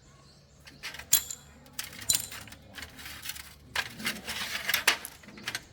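Small metal objects clinking and rattling: a run of sharp clicks and short scraping bursts, busiest in the second half.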